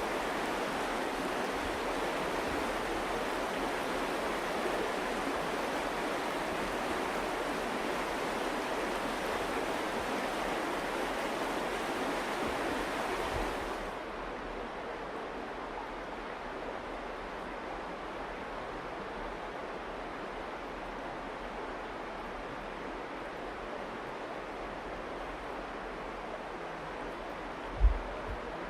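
Steady rushing of the Virgin River's water, which drops to a quieter, duller rush about halfway through. Shortly before the end there is a single brief low thump.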